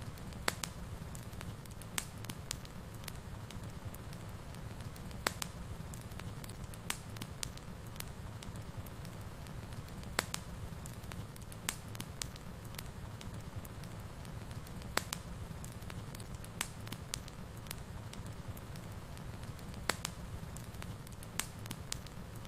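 Wood fire burning in a fireplace, with a steady low rumble and sharp, irregular pops and crackles every second or so.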